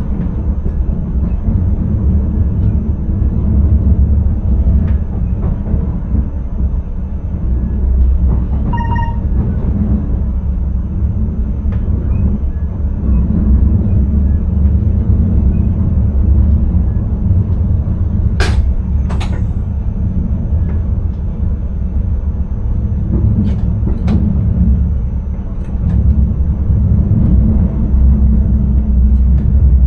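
Electric intercity train running, heard in the driver's cab: a steady low rumble of wheels and running gear with a faint high whine. A short beep sounds about nine seconds in, and sharp clicks come in two pairs past the middle.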